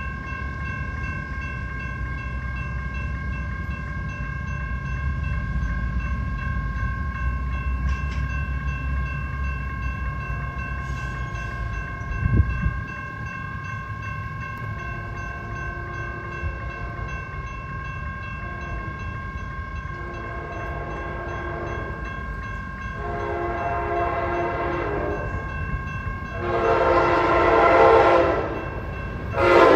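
Train rumbling, fading out about halfway through. Then a locomotive horn sounds a series of blasts, each louder than the last as the train approaches. A steady high ringing runs underneath.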